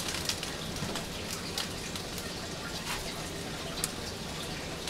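Thunderstorm rain falling steadily, with scattered sharp ticks of drops striking a surface.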